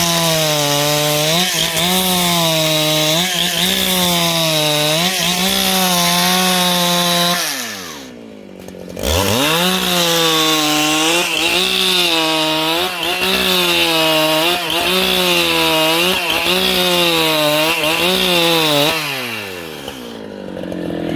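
Husqvarna 395XP two-stroke chainsaw at full throttle cutting wood, its pitch dipping briefly about once a second as the chain bites. About a third of the way in it drops to idle, then revs back up and carries on cutting, and near the end it drops to idle again.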